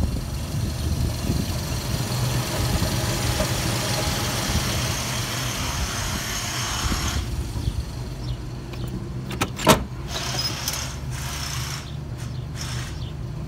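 A 1950 Oldsmobile 88's 303 Rocket V8 idling steadily. A hiss lies over it for about the first seven seconds, and one sharp knock comes about ten seconds in.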